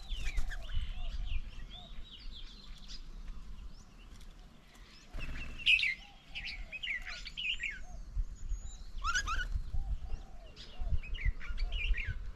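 Several birds chirping and calling, quick high chirps and whistles over a series of short, lower repeated notes, with a low rumble underneath.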